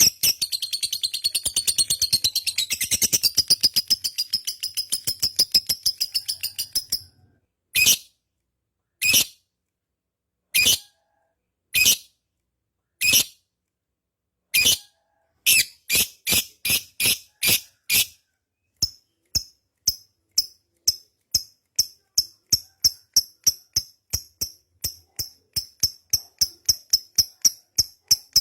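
Lovebird giving its ngekek song: a dense, rapid chattering trill for about seven seconds, then single sharp chirps spaced more than a second apart that speed up into a fast, even run of chirps in the second half.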